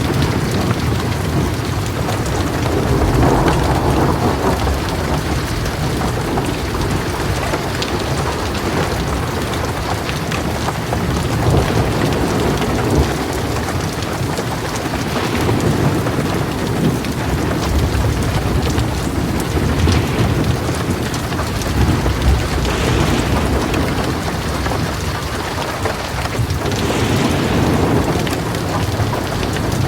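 Heavy rain pouring steadily, with thunder rumbling now and then under it.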